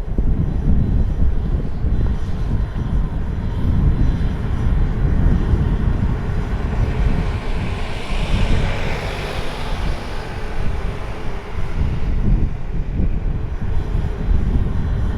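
A jet aircraft passing, its engine noise swelling to a peak about nine seconds in and then fading, under heavy wind buffeting on the microphone throughout.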